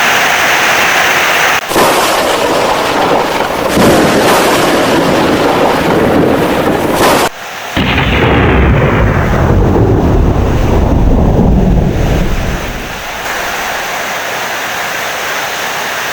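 Loud thunder rumbling over heavy rain, broken by two brief sudden dropouts. A deep rumble swells from about halfway and dies away after about three quarters of the way in, leaving steady rain.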